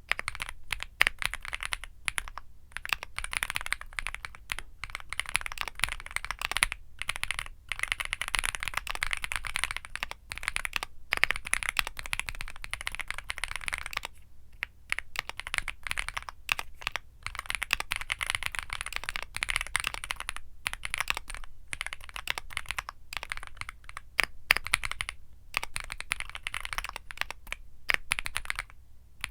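Fast continuous typing on a Womier SK75 mechanical keyboard with Womier Mint Blizzard switches, keystrokes clacking in quick runs with brief pauses.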